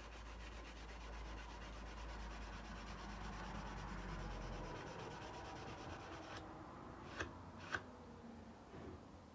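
Sandpaper rubbed by hand along a steel kukri blade, a steady scratchy sanding that stops after about six seconds, followed by two sharp clicks.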